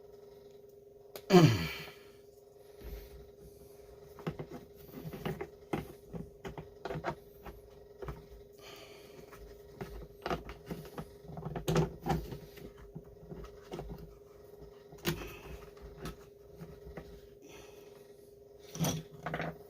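Scattered clicks, taps and knocks of hands and tools fitting a carburetor back onto a STIHL 026 chainsaw, over a steady background hum. About a second in comes the loudest sound, a sharp one that drops quickly in pitch.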